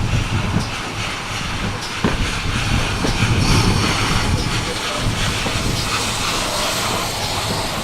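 Steam-hauled train running, ex-GWR 4575 Class 2-6-2T tank engine no. 5526 with its carriages: a steady rumble with a hiss that is loudest in the middle.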